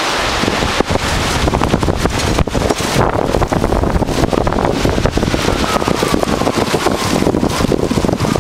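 Strong gusty wind buffeting the microphone, a loud, continuous rough rumble. In the second half a faint tone slowly falls in pitch.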